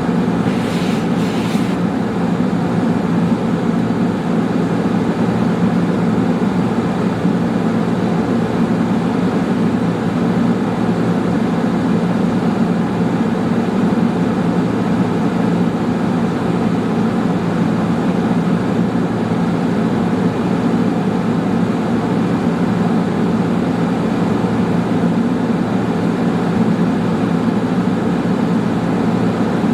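A steady low mechanical drone with a constant hum, with a brief faint hiss about a second in.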